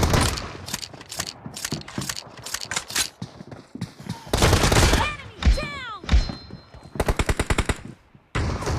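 Video game gunfire: scattered single shots, then a burst, then a rapid run of automatic fire, with a short gap near the end.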